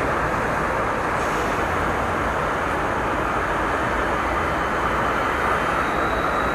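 Steady wind rush on a motorcycle rider's microphone with the bike's engine and road noise underneath, cruising at an even speed.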